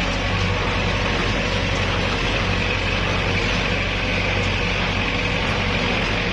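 Kubota L5018SP tractor's diesel engine running steadily, with no change in pitch or level.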